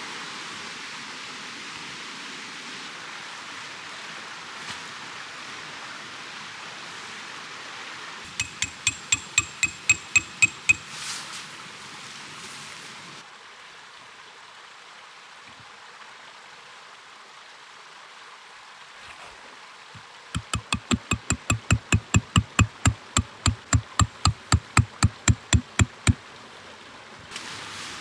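Two runs of quick, even hammer blows, about five a second, on something that rings like metal: a short run about eight seconds in and a longer one about twenty seconds in. A steady hiss underlies the first half.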